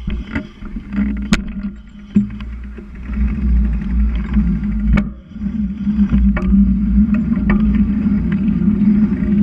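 Wind rumbling on the microphone of a camera riding along on a moving bicycle, growing stronger after about three seconds, with frequent sharp clicks and rattles as the bike goes over bumps.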